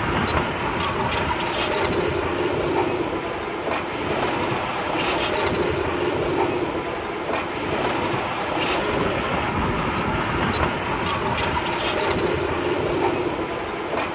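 Diesel engine of heavy earthmoving machinery running steadily, with scattered short metallic clanks.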